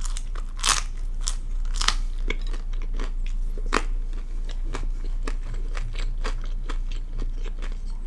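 Close-miked mouth chewing a bite of pizza: uneven crunchy clicks, louder in the first four seconds and softer after.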